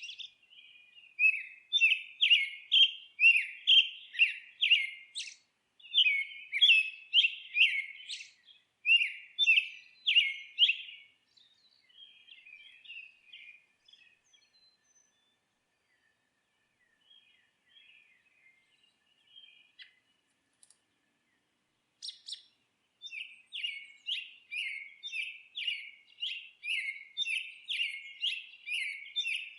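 Small songbirds chirping in fast runs of short, high notes. About a third of the way in the song turns faint and sparse with a short lull, then picks up again for the last several seconds.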